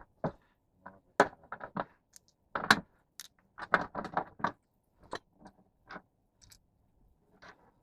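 An irregular clatter of sharp clicks and knocks, like small hard objects being handled and set down, busiest in the middle and thinning out towards the end.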